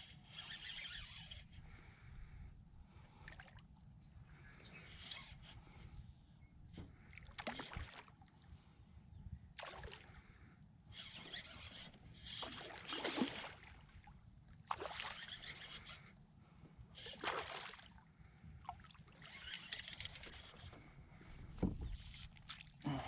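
Kayak paddle strokes through water: a steady rhythm of swishing splashes, about one every two and a half seconds.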